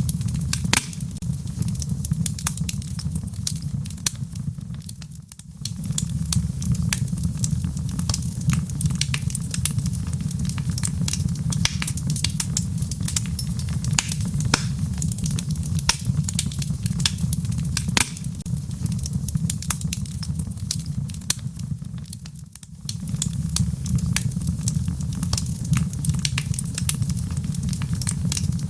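Wood fire crackling in a fireplace: a dense, irregular scatter of sharp pops and snaps over a steady low rumble of flames, dipping briefly in loudness twice.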